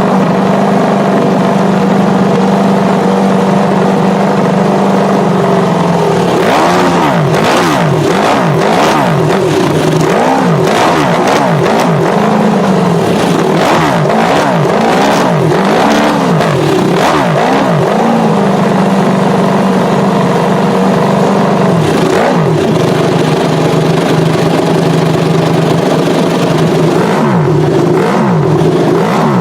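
Ducati Panigale engine through a MotoGP-version exhaust, idling steadily and then revved in a string of about a dozen quick throttle blips roughly a second apart. It settles back to idle, with one more blip a few seconds later and several near the end.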